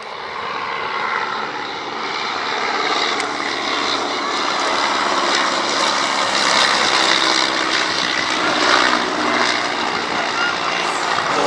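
Fixed-wing aircraft flying past, its engine noise growing steadily louder as it approaches.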